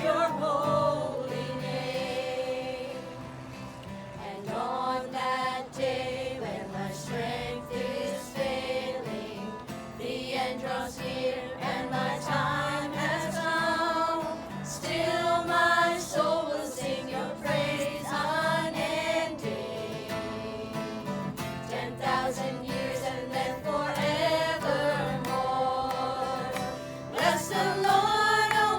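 A small group singing a gospel worship song together, unamplified, with an acoustic guitar strummed beneath the voices.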